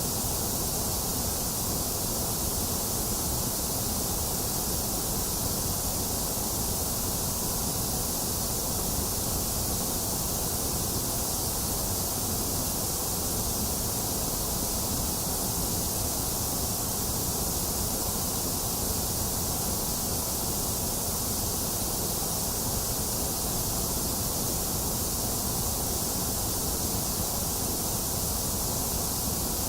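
Synthetic white noise, a steady and unchanging hiss with no breaks or events; it has a bright high hiss and a low rush, with the middle range scooped out.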